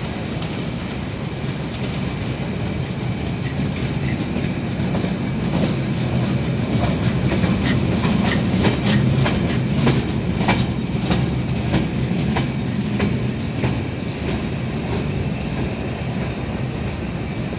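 Freight train rolling past with a steady low rumble, its wheels clacking over rail joints in a quick run of sharp clicks through the middle, loudest partway through.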